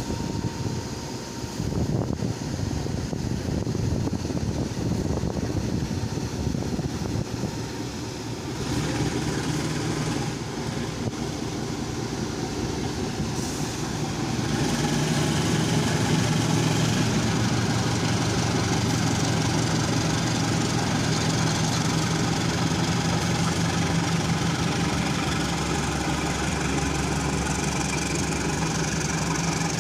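Diesel locomotive engine running at a steady idle, with a low drone that grows louder about halfway through as the locomotive draws nearer.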